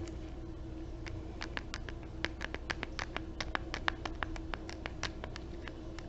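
ASMR finger tapping: quick, irregular light taps on a small hard object, several a second, starting about a second in.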